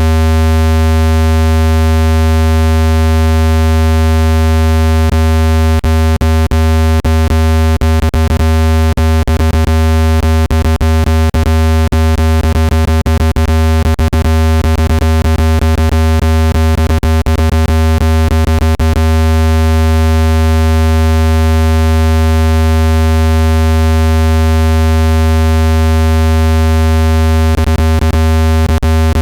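Synthesized speaker-cleaning tone: a loud, steady, low hum with a dense stack of even overtones, made to vibrate dust out of a phone speaker played at full volume. Irregular sharp clicks run through it from about six seconds in until about two-thirds through, and again near the end.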